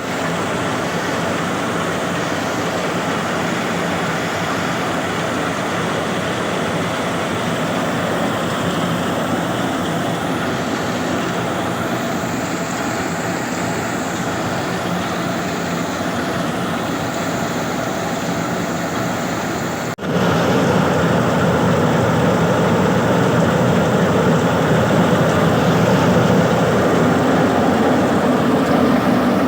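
Tractor-driven threshing machine running steadily while threshing jowar (sorghum), a dense, continuous mechanical din. A brief break about twenty seconds in, after which it runs louder.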